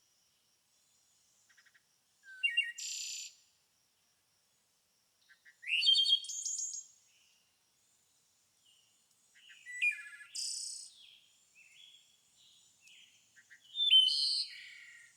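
A songbird singing four short phrases, roughly every four seconds, each a quick rising note running into a high, buzzy trill. Faint high chirping continues between the phrases.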